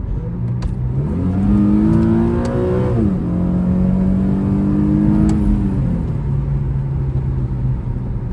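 Infiniti G37 Coupe S's V6 engine on its stock exhaust, accelerating. The revs climb, drop sharply about three seconds in at a gear change, climb again, then fall back to a steady cruise near six seconds.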